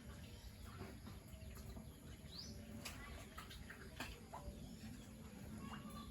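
Faint, scattered bird chirps, one a quick rising chirp about halfway through, over a low steady background with small clicks.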